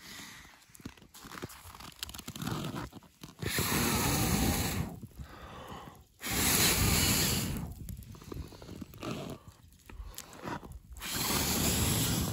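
A person blowing hard on a smouldering campfire of damp wood to fan it into flame: three long breaths of rushing air, each about a second and a half, with small clicks between.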